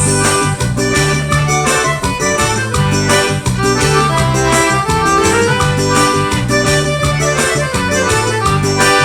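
Forró band playing an instrumental break between sung verses: accordion carries the melody over a bass line and a steady percussion beat.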